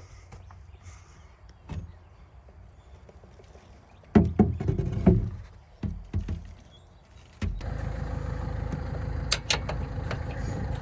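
A few loud metal clunks and knocks, then a tractor engine running steadily from about two-thirds of the way through.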